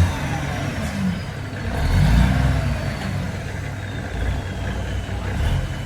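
Dump truck engine running low and steady as the truck tips a load of dirt, the rumble swelling briefly about two seconds in.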